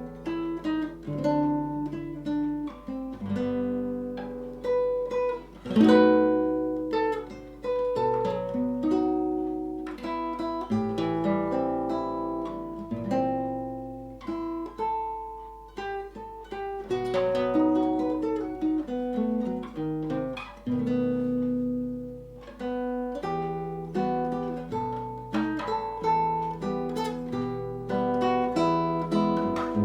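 Solo acoustic guitar playing a Gypsy song, a melody of plucked notes over chords with some strummed passages, the notes ringing and dying away between attacks.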